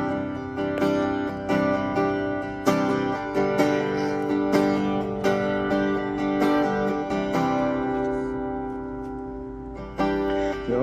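Acoustic guitar strummed in slow chords, each strum ringing on; the playing eases off for a moment near the end, then a fresh chord comes in.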